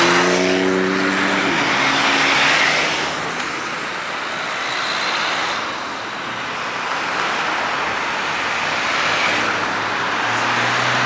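Road traffic with cars passing, their noise swelling and fading every few seconds. An engine note stands out in the first second and a half and again near the end.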